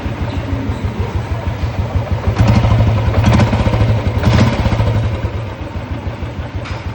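Freshly rebuilt Royal Enfield single-cylinder motorcycle engine running after reassembly, with rapid, even firing pulses; it gets louder for about two seconds in the middle, then eases back.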